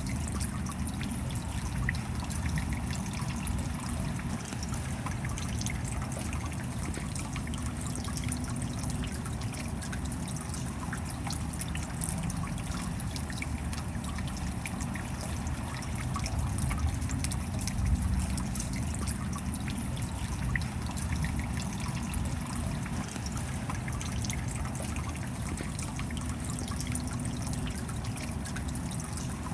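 Steady rain falling, a continuous even wash of noise with a deep rushing undertone and countless small drop ticks over it.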